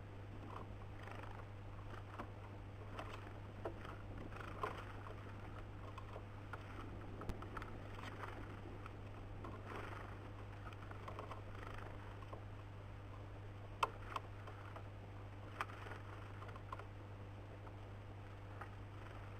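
Birds at a wooden feeder: scattered sharp taps and knocks of pecking and landing, with faint short chirps, over a steady low electrical hum from the camera's microphone. The loudest knocks come about two-thirds of the way through.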